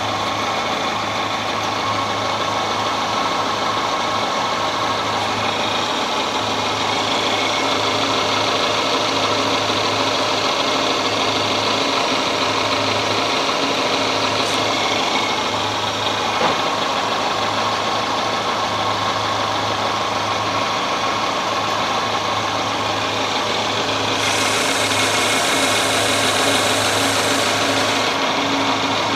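Subaru EJ22 flat-four engine of a 1997 Impreza idling steadily, heard from under the car beside the exhaust downpipe.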